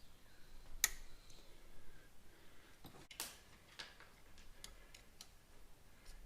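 A few faint metal clicks and taps at irregular spacing, the loudest about a second in: a fork seal's retaining clip being worked into its groove.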